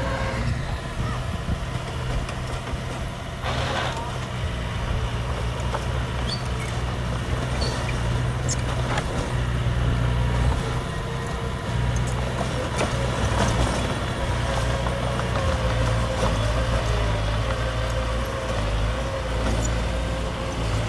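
Heavy diesel earthmoving machinery running steadily with a deep engine hum, scattered clanks and a short burst of hiss about three and a half seconds in.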